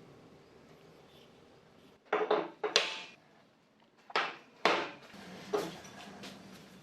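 Metal parts clanking and knocking as they are handled: two pairs of sharp clanks, about two and four seconds in, then a lighter knock and a few faint clicks.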